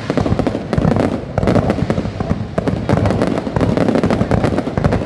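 New Year fireworks going off in a dense, continuous barrage of bangs and crackling, many per second with no break.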